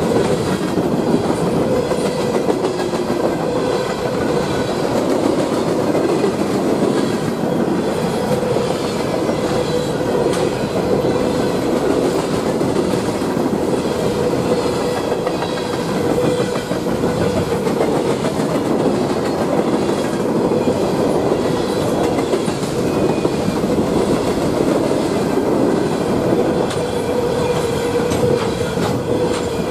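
Norfolk Southern freight train of coal hopper cars rolling steadily past, steel wheels clattering over the rails with a continuous rumble and clickety-clack, and a faint steady whine underneath.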